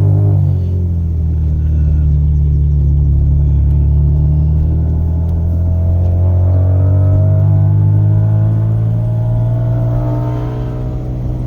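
Turbocharged 2.7-litre V6 of a 2005 Hyundai Tiburon running at steady, moderate revs, the note rising a little in the second half and easing off near the end.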